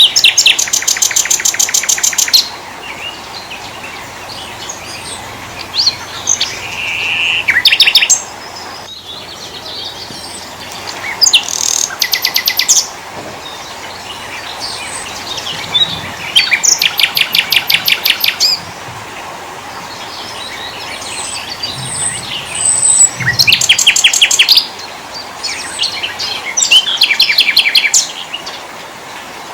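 Small forest songbirds singing: about six loud bursts of very fast, evenly repeated high trilling notes, each up to about two seconds long, over a background of scattered faint chirps.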